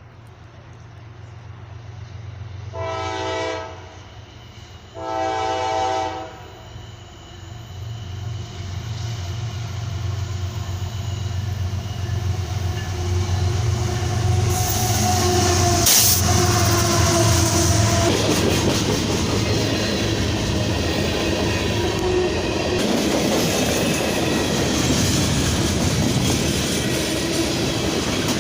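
A train horn sounds two blasts, about a second each, a couple of seconds apart. Then a train approaches and passes, growing louder, with a steady low locomotive engine hum and wheels clattering on the rails.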